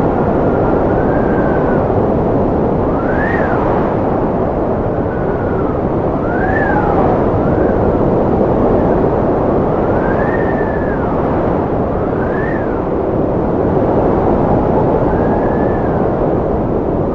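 Strong wind blowing in a steady rush, with a whistling tone that rises and falls again every two seconds or so.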